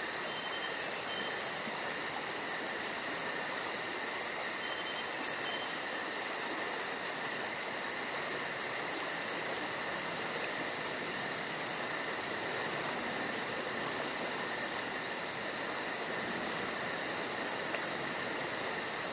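Steady chorus of tropical forest insects, several high-pitched shrilling tones layered with a fast pulsing trill on top.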